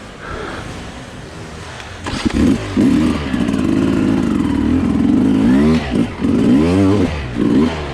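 Enduro dirt bike engine, heard from the rider's onboard camera. It runs low for about two seconds, then opens up loud and holds high revs. Near the end it rises and falls in a few quick throttle blips.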